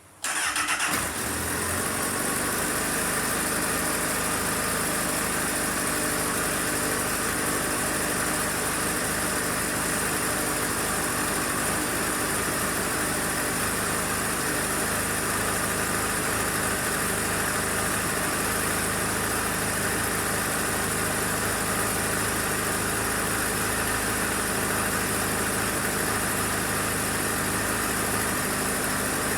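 Honda CBR1000RR's inline-four engine starting a fraction of a second in, flaring briefly, then settling into a steady idle.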